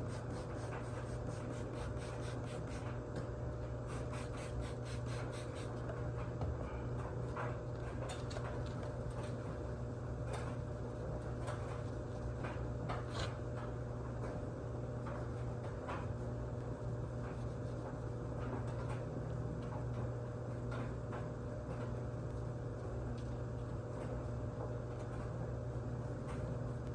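Fine 2,000-grit sandpaper rubbing back and forth by hand over a plastic headlight lens, a soft scratchy scraping with occasional sharper strokes, over a steady low hum.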